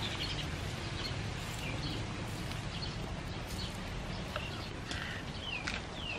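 Birds chirping now and then, with two short falling calls near the end, over a steady hiss and low rumble; a few faint clicks.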